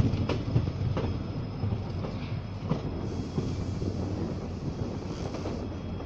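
Express train passenger coach running on the track: a steady low rumble with a few sharp clacks of the wheels over rail joints, and a hiss for a couple of seconds midway.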